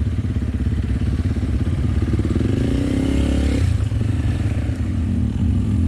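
Enduro dirt bike engine running under way, with a rising rev from about two seconds in that drops off a second and a half later.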